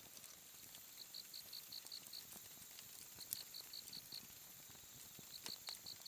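Faint cricket chirping in short trains of rapid high pulses, one train every two seconds or so, over a steady high insect hiss. Scattered faint crackles from a campfire.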